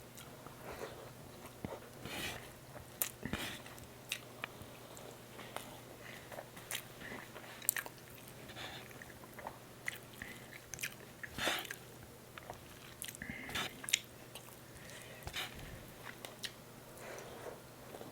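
Close-miked eating: irregular biting and chewing with wet mouth smacks and occasional crunches, over a faint steady low hum.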